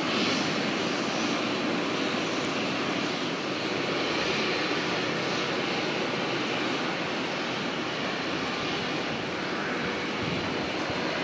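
Airliner engines running: a steady rush of engine noise with no sharp changes.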